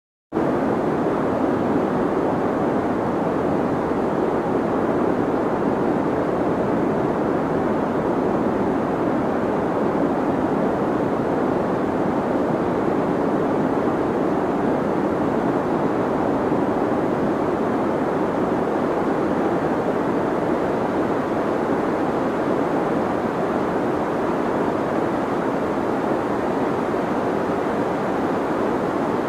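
Steady deep white noise, a continuous even hiss weighted towards the low and middle range and muffled at the top, with a brief cut to silence at the very start.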